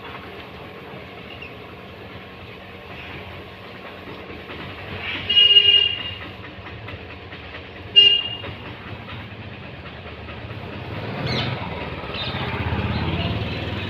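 Two horn toots, a longer one about five seconds in and a short one about three seconds later, followed by a low rumble that builds near the end.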